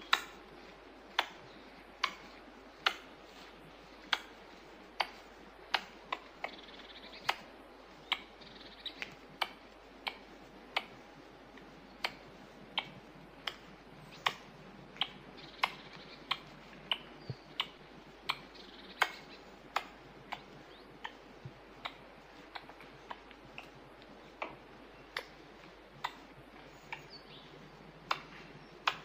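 Eurasian red squirrel calling with sharp, dry clicks, about one to two a second at uneven spacing.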